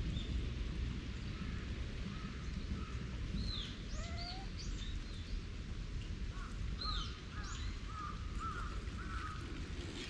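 Birds calling: a string of short chirps and quick falling whistled notes, starting about three seconds in and going on until near the end, over a steady low rumble.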